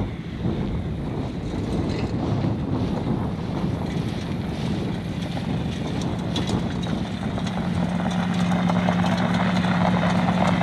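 1973 Corvette's V8 running as the car drives up and slows, getting louder as it nears. It settles into a steady low note in the last few seconds, with gravel crunching under the tyres.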